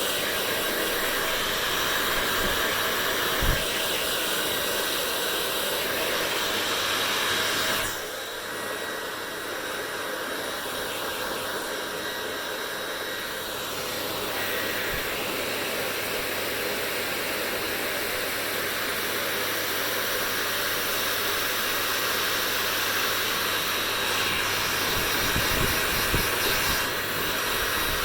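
Electric hair dryer blowing steadily, a rushing noise with a faint motor hum. About eight seconds in it drops quieter, then slowly builds back up; a light knock comes early, and a few soft thumps come near the end.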